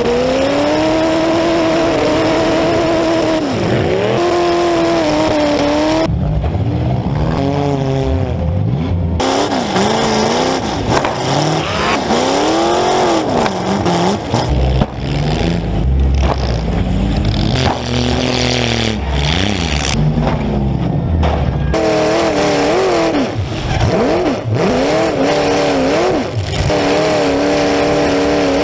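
Demolition derby cars' V8 engines with open header stacks, heard close up from the hood, revving hard up and down over and over. Several different cars are heard in turn, the engine note changing abruptly a few times.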